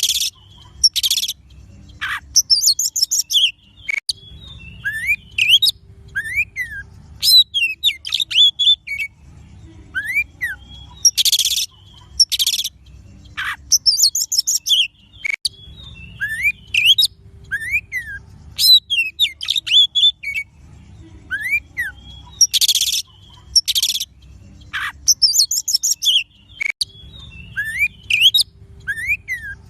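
Oriental magpie-robin song: whistled rising notes, rapid high trills and short harsh rasping notes. The same run of phrases repeats about every 11 seconds, as a looped recording does.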